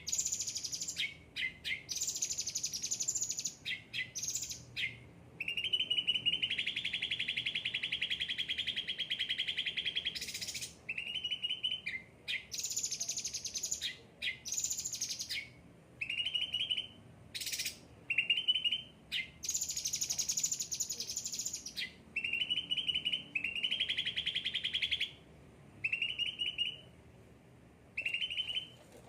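Caged songbird singing in rapid trilled phrases, some lower and some higher and buzzier, one to a few seconds each, with short pauses; the longest phrase runs about three seconds in the first third.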